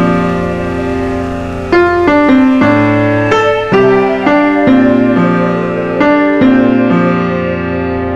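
Background piano music: slow, gentle chords struck about once a second and left to ring.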